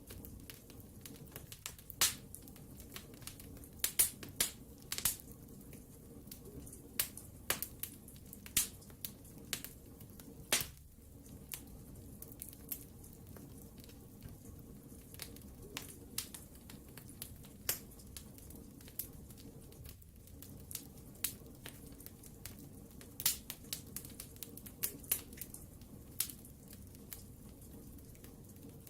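Wood fire burning in a fireplace: sharp irregular crackles and pops over a low steady hiss.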